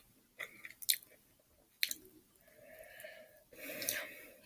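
A person chewing a mouthful of fried chicken sandwich close to the microphone: a few short wet mouth clicks, then two longer stretches of soft chewing.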